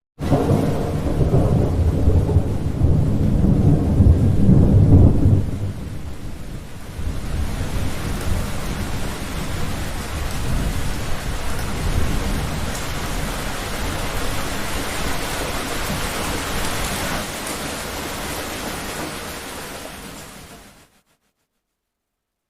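Thunderstorm: a deep, loud rumble of thunder for the first five seconds or so, then heavy rain with fainter rolling thunder, fading and then cutting off about a second before the end.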